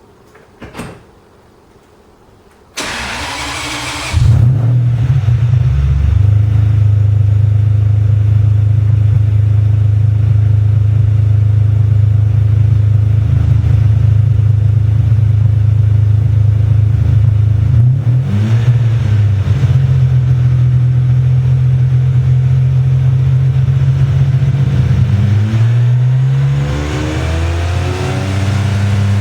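Ferrari 550 Maranello's V12, fitted with Tubi Style rear mufflers and an X-pipe in place of the centre muffler, being started. A faint click comes about a second in, then the starter cranks for about a second and a half. The engine catches with a loud burst and settles to a steady, loud idle. It gives a brief blip about two-thirds of the way through, and its pitch steps up near the end.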